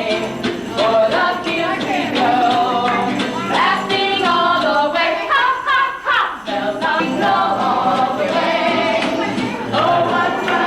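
Music with a group of voices singing a song, continuous and fairly loud.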